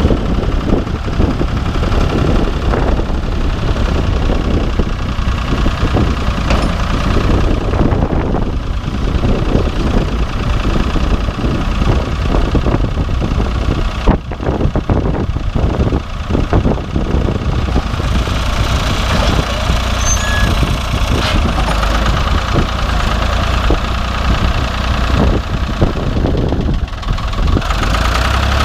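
Ford 4500 backhoe loader's 3-litre three-cylinder diesel engine running, with an irregular clatter through most of it, settling to a smoother, steadier run near the end.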